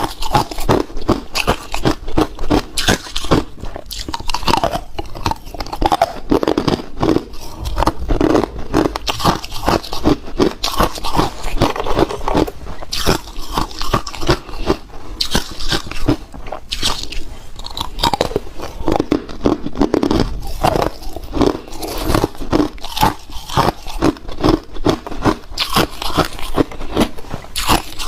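Ice being bitten and chewed close to the microphone: continuous loud crunching and cracking of hard ice between the teeth.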